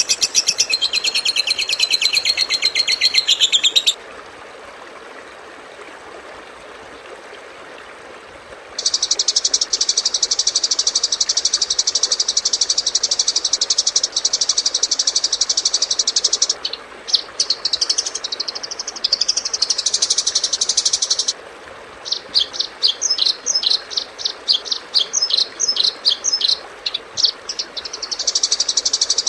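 Recorded songbird masteran: long, fast, high-pitched buzzing trills. After the first trill there is a pause of about five seconds with only a faint hiss, and the later trills break into quick, separate stuttering notes.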